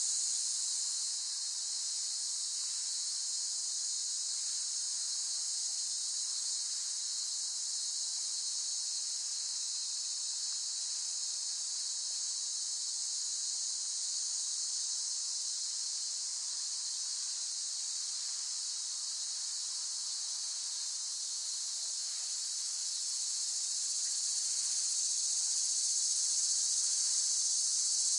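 Chorus of cicadas buzzing, a steady, shrill, unbroken drone that swells slightly louder near the end.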